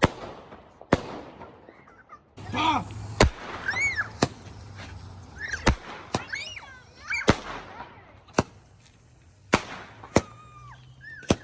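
Fireworks going off: about ten sharp bangs at irregular intervals, with several short whistles that rise and fall in pitch between them.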